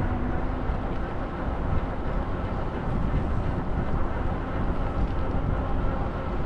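City bus in motion, heard from inside the cabin: a steady low rumble of drive and road noise with a faint steady whine over it.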